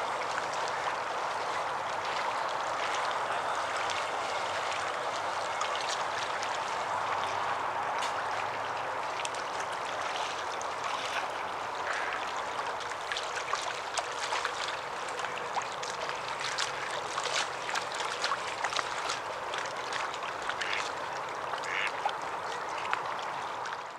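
Short waterbird calls over a steady background hiss, the calls coming more often in the second half.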